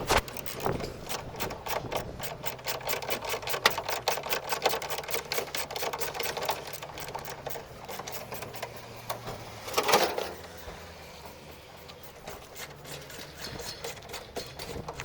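Rapid, repetitive mechanical clicking or tapping, several strikes a second, from a small workshop tool. It thins out about halfway through, with one louder burst about ten seconds in.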